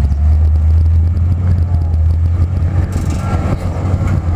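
1968 International pickup truck's engine running steadily with a deep low rumble while the truck is driven slowly.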